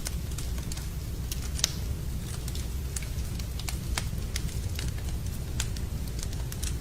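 Wood campfire crackling, with irregular sharp pops and snaps, the loudest about a second and a half in, over a steady low rumble.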